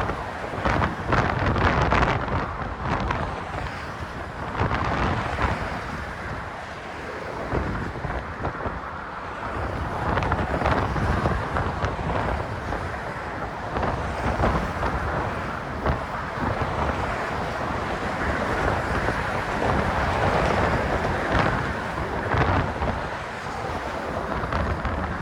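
Strong wind buffeting a cell phone's microphone, which is partly covered with a sock, in continuous gusting rumble that rises and falls, with a few sharp pops in the first couple of seconds.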